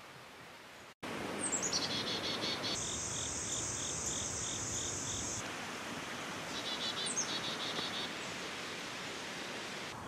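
A songbird singing about a second in: runs of quick high repeated notes that slide downward, twice, with a steady high buzz lasting a few seconds between them, over outdoor background hiss.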